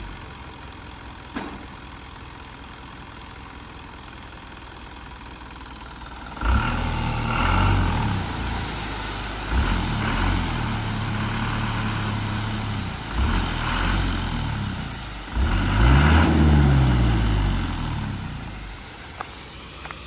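A truck's engine comes in suddenly about six seconds in and runs with uneven revving, the strongest rev rising and falling in pitch near the end, then dies away.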